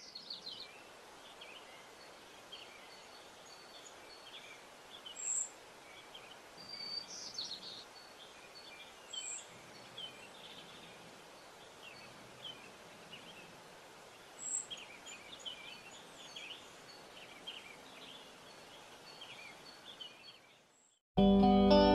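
Small birds chirping and calling over a steady outdoor hiss, with a few sharp, high chirps standing out. Music cuts in abruptly at the very end.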